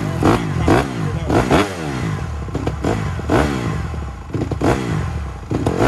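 Dirt bike engine revving, the throttle blipped up and back down again and again, about once a second.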